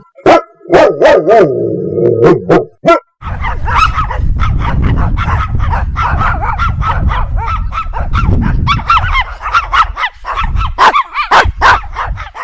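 Rats squeaking and squealing: a few separate short squeaks with gaps at first, then from about three seconds in a dense run of rapid squeaks over a rough, noisy background.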